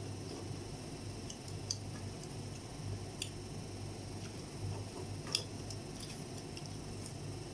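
Small, scattered crunches and clicks of people eating fried chicken, with the loudest click about five seconds in, over a steady low hum.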